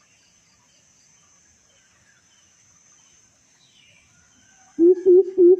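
Faint steady insect trilling with scattered distant bird chirps, then near the end a coucal (burung but-but) starts its deep series of evenly spaced 'boop' notes, about three a second, much louder than the background.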